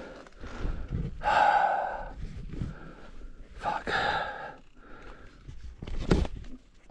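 A person breathing hard, with two loud, breathy exhales a couple of seconds apart and a sharp knock near the end.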